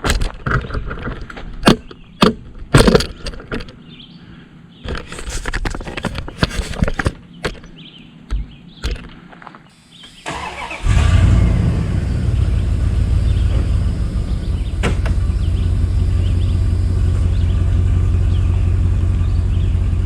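Scattered metal knocks and clanks, then about eleven seconds in an engine starts suddenly and keeps running steadily.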